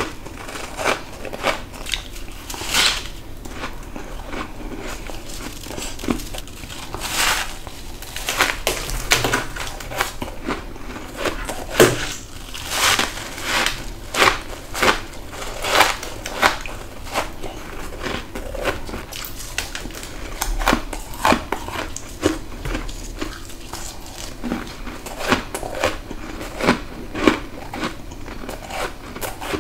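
Repeated bites into humidifier frost grown in a deep freezer: crisp, crackly crunches, often several a second, with no pause.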